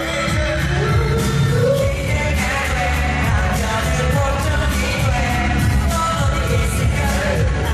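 Pop song performed live by a male vocal group: male singing over a pop backing track with heavy bass and a steady beat, played through a venue PA.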